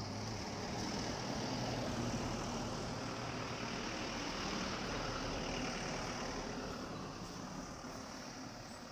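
Motor vehicle running with road and wind noise, a low engine hum under a wide rush. It swells over the first couple of seconds and fades slowly toward the end.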